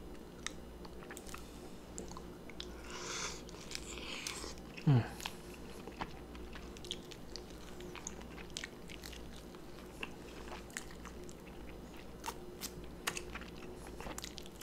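Close-miked eating sounds: biting into and chewing a seasoned lollipop chicken drumstick, with many small wet mouth clicks. A brief falling hum about five seconds in is the loudest moment.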